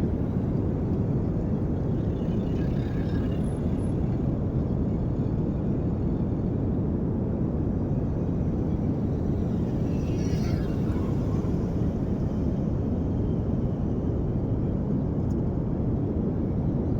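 Steady low rumbling outdoor noise at a constant level, with faint brief voice-like sounds about two seconds and ten seconds in.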